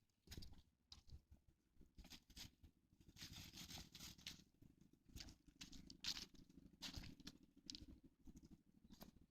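Faint, irregular rustling and crackling of dry fallen leaves as a dog moves and noses through them.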